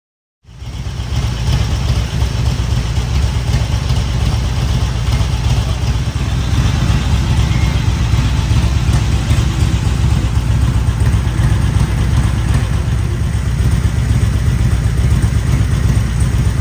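Heavy rain pouring down, a steady loud wash with a deep rumble underneath, starting abruptly about half a second in.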